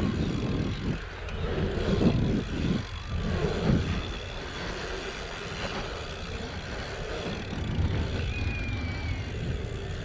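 Wind buffeting a helmet-mounted action camera's microphone along with the rumble of BMX tyres rolling on a pump track. The noise comes in uneven gusts for the first few seconds, then steadies.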